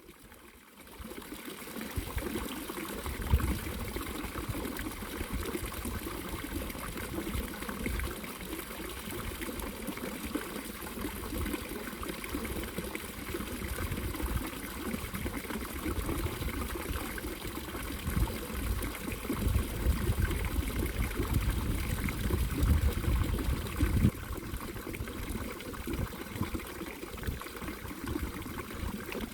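Water running and trickling steadily, with a fluctuating low rumble beneath it that grows stronger for a few seconds past the middle.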